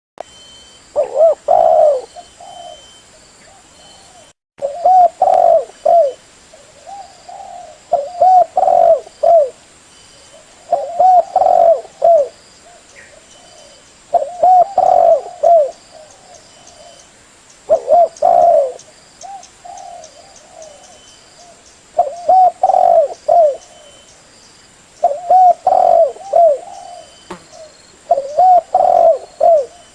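Spotted dove cooing: a short phrase of several coos, repeated about every three to four seconds, about nine times.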